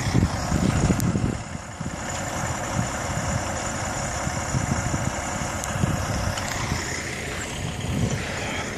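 A vehicle engine idling steadily, with low rumbling bumps on the microphone in the first second or so.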